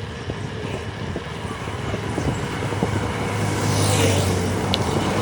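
Road vehicle running, a low engine hum that grows louder over the second half, with a rushing noise of passing traffic or wind building near the end.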